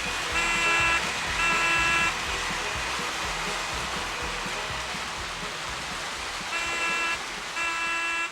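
Toy electric train's whistle blowing two pairs of long blasts, the second pair near the end, over the steady running noise of the train.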